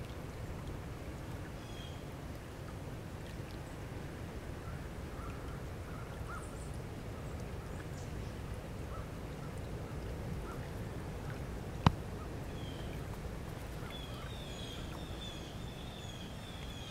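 Faint short chirps of small birds over a steady low outdoor rumble, with the chirps coming more often near the end. A single sharp tap, the loudest sound, about twelve seconds in.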